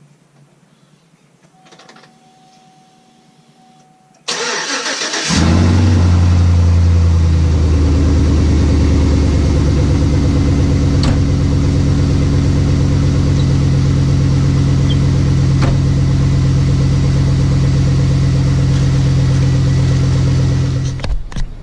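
Chevy 4x4 pickup truck engine cranked by the starter about four seconds in, catching after about a second and then idling steadily; the sound cuts off near the end.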